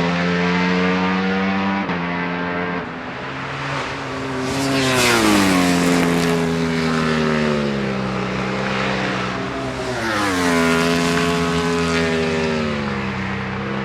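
Ducati Panigale V4 superbikes at race speed, their V4 engines held at high revs. Two of them pass close by, about four and a half and ten seconds in, each swelling and then dropping sharply in pitch as it goes past.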